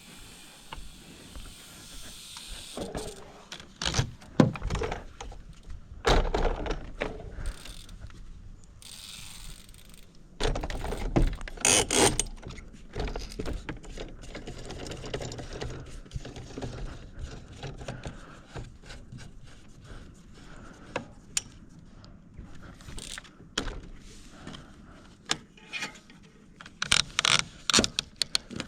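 Irregular clicks, knocks and rattles, with a few heavier thuds, of a mountain bike being handled and moved about.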